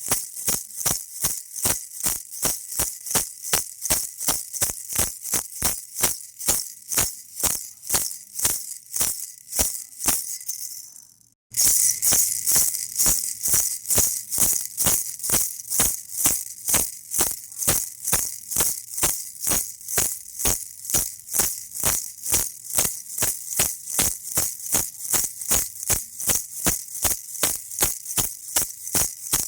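Baby toy rattle shaken in a steady rhythm, about three shakes a second. It fades out and stops briefly about eleven seconds in, then starts again louder.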